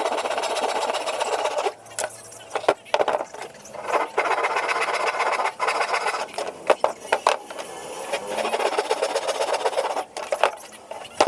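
Small power tool working wood in several runs of a second or more, each broken off by a short pause, with a few sharp knocks between them.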